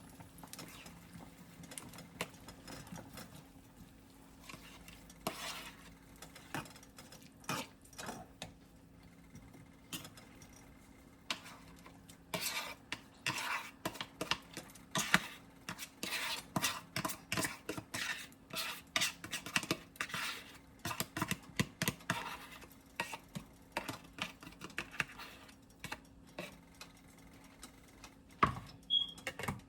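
A spoon clinking and scraping against a cooking pot as it is stirred, in quick runs of strokes that are densest through the middle stretch, with a faint steady low hum underneath.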